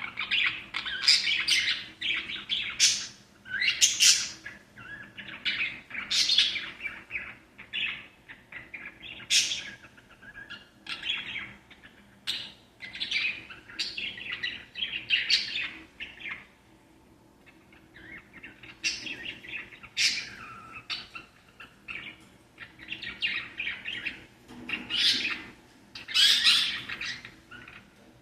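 Small pet parrots chirping and warbling in quick, uneven runs of short calls, with a brief lull a little past the middle.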